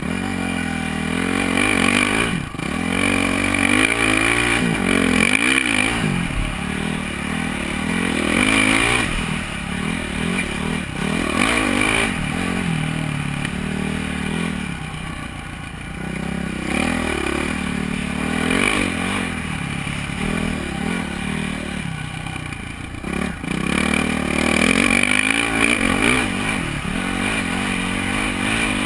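Honda CRF450R dirt bike's single-cylinder four-stroke engine being ridden hard. Its note climbs and falls repeatedly as the throttle is opened and rolled off, with short lulls between pulls.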